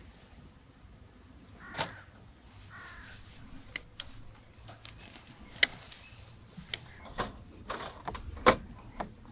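A series of irregular sharp knocks and clicks, the loudest about five and a half and eight and a half seconds in, with two short bird calls about two and three seconds in.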